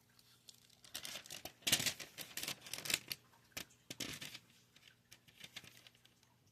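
Soft rustling and crinkling handling noise made of irregular clusters of short crackles, loudest about two seconds in.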